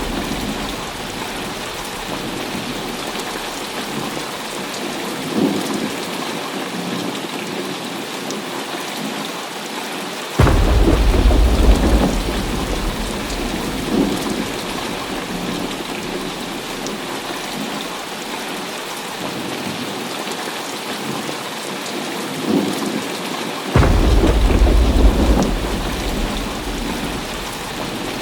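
Heavy rain falling steadily, with two sudden claps of thunder about ten and a half and twenty-four seconds in, each followed by a deep rumble lasting a couple of seconds.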